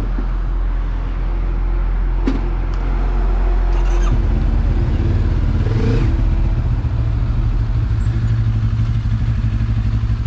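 Benelli TRK 702's parallel-twin engine running at low revs, its note shifting about four seconds in.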